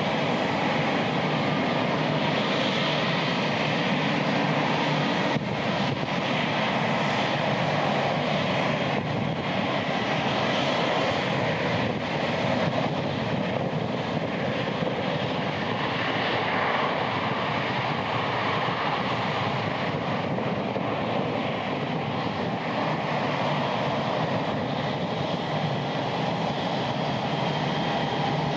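Boeing 787-8 Dreamliner's jet engines running, a steady loud rushing whine with a faint held tone, with no rise or fall.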